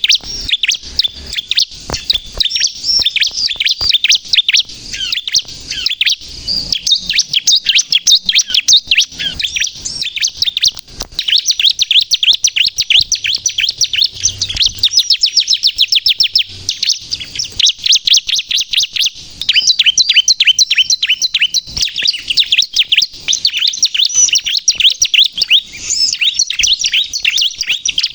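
Ciblek kristal (bar-winged prinia) singing in full voice: a continuous run of rapid, high-pitched chirps and trills. It is the kind of song used to lure ciblek and provoke them into answering.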